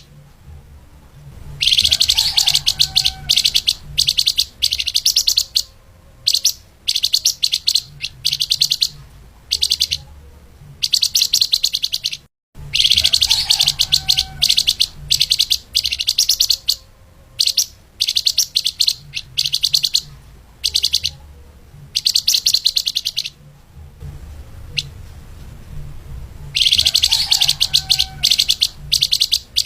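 Song of a flamboyan (lemahan) songbird: rapid, tightly packed high notes in bursts of up to a second or so, separated by short pauses, over a low steady hum. The recording cuts out briefly about halfway through.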